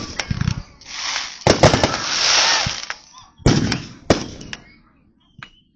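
Aerial fireworks going off: sharp bangs, then a dense crackling hiss about one to three seconds in, with two more loud bangs around three and a half and four seconds in before the sound dies away.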